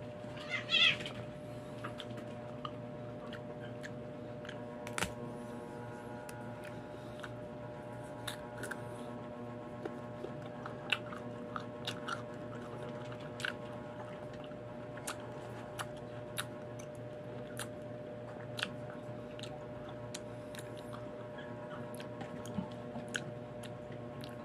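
Crunchy unripe green mango being chewed, with short sharp crunches scattered through, over a steady background hum. A short, high, wavering cry about a second in is the loudest sound.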